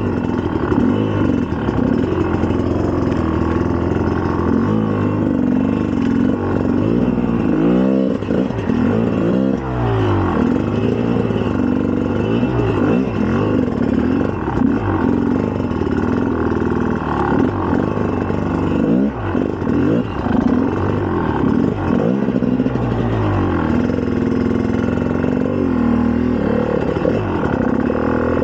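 2004 GasGas EC300's single-cylinder two-stroke engine being ridden hard, its pitch rising and falling over and over as the throttle is opened and closed and the gears are changed.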